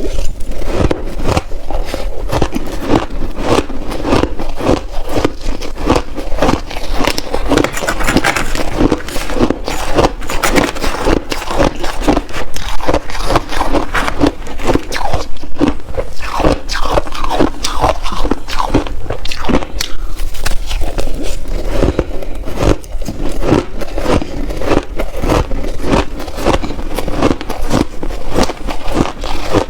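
Close-miked crunching of shaved ice being bitten and chewed in big mouthfuls: a dense, continuous run of sharp crackles and crunches, with a spoon scraping the ice now and then.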